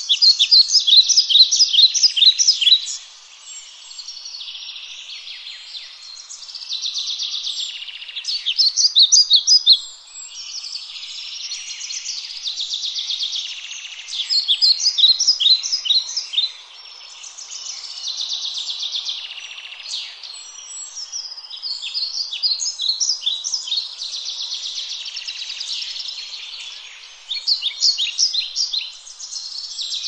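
Songbirds singing: high phrases a few seconds long, some made of rapid separate chirps and others of faster, buzzier trills, repeating with short pauses throughout.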